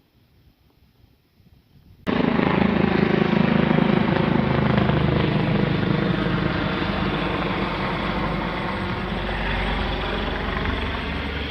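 Helicopter flying low overhead. Its loud rotor and engine noise cuts in abruptly about two seconds in, and its pitch falls slowly as it passes.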